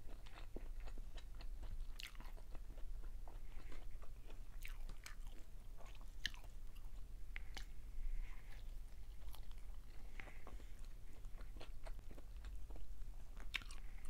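A person biting and chewing food eaten by hand, with many scattered small mouth clicks, over a steady low hum.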